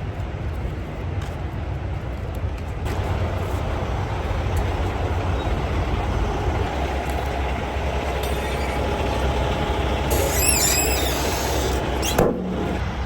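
Diesel truck engine idling with a steady low rumble, joined by a louder rushing noise from about three seconds in. Near the end comes a wavering high squeal and then a sharp knock.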